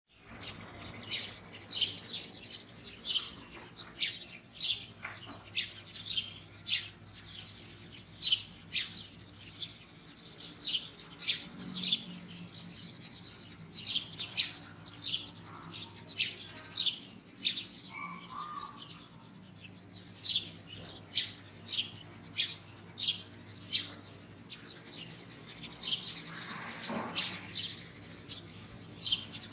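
Birds chirping in the morning: short, sharp high chirps repeated every second or so, with one longer, lower call near the end.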